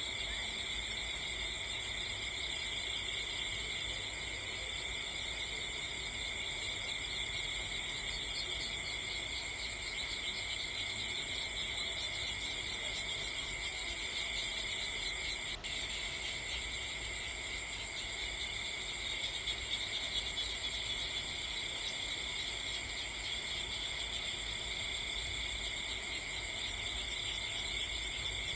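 Steady, unbroken chorus of night insects chirring at several high pitches over a low rumble, with one faint click a little past the middle.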